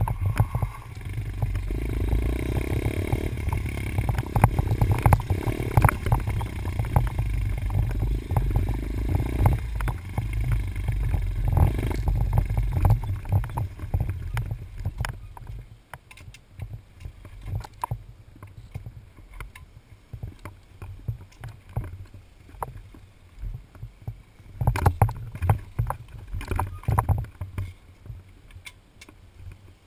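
Dirt bike riding on a track, heard through a cased action camera: muffled engine and wind rumble, louder for the first ten seconds or so and quieter after, with frequent knocks and rattles from bumps.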